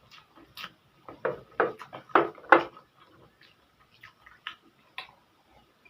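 Close-miked mukbang eating sounds: a run of wet clicks and smacks from chewing a mouthful of noodles, loudest and quickest about one to two and a half seconds in, then thinning out.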